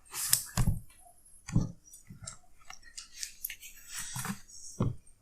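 A person's short, sharp sniffs, breaths and mouth noises, about six irregular bursts, reacting to the burning heat of raw, unpeeled ginger in the mouth.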